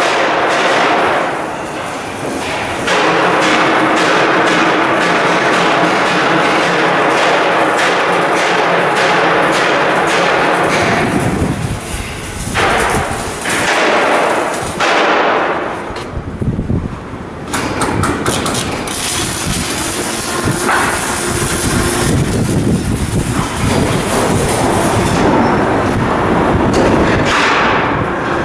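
Shipbuilding work on steel hull blocks: repeated metal knocks and hammering over a dense clatter of machinery, with a deep rumble joining about eleven seconds in.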